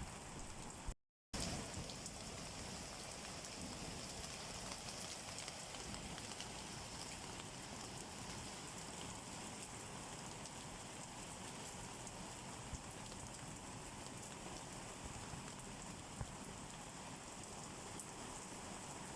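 Steady rain falling: an even hiss with a few louder individual drop taps. The sound cuts out completely for a split second about a second in.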